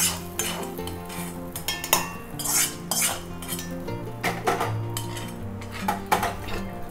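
Metal spoon scraping and clinking against a cooking pan in quick, irregular strokes, over soft background music.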